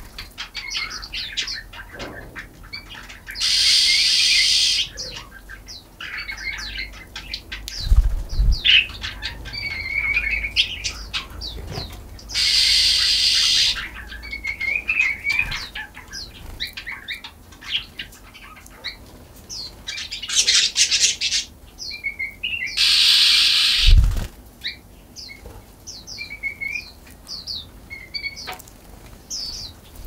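Small birds chirping and twittering throughout, with four loud bursts of wing flapping about a second long each as birds fly in and out, and a few low thumps.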